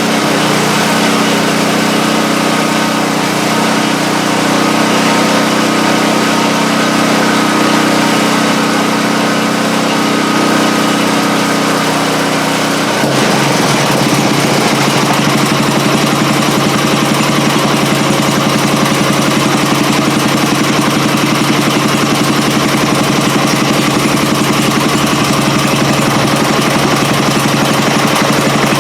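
Small engine of a 5 hp garden tiller running steadily; about 13 seconds in its note shifts and it gets a little louder, settling into a faster, even running sound.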